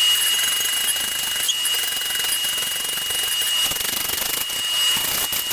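Rapid, steady mechanical hammering on a hot axe bit to set a forge weld, with a high steady whine running under it.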